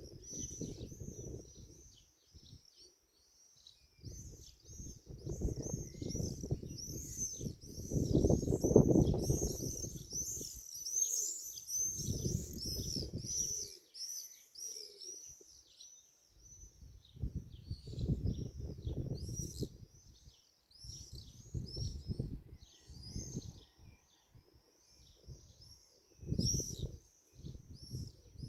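Many small birds chirping in a dense, rapid, high-pitched chatter throughout. Low rumbling gusts come and go every few seconds underneath, loudest about nine seconds in.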